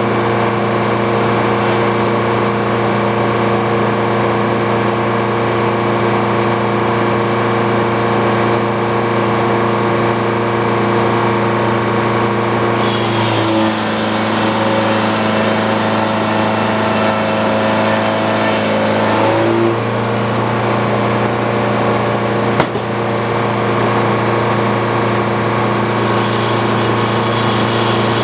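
Frick sawmill running steadily, its engine and circular blade holding one pitch. About halfway through, the pitch sags for some six seconds with added noise, then comes back up, as the engine pulls down under load while the blade cuts through the log. A single sharp knock follows a few seconds later.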